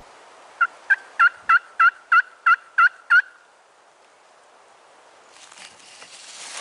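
Turkey call sounding a run of nine loud, evenly spaced hen yelps, about three and a half a second, lasting about two and a half seconds. It is a hunter calling to draw in a gobbler.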